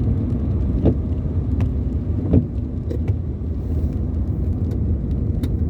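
Steady low rumble of a car driving in the rain, heard from inside the cabin, with a few scattered sharp ticks.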